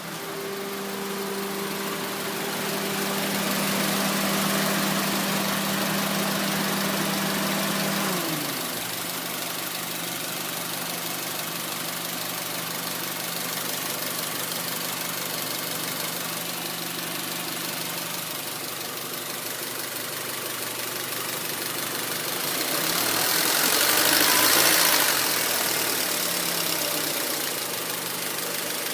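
2004 Honda Civic LX's 1.7-litre four-cylinder engine idling; about eight seconds in its pitch drops sharply as the revs sag, then it holds lower. A louder rushing swell comes about three-quarters of the way through. The owner has a rough, low idle with stalling and suspects the O2 sensor.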